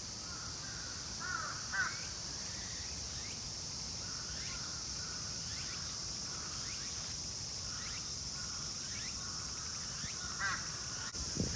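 Steady high-pitched chorus of insects, with a few short bird calls, twice about a second or two in and once near the end.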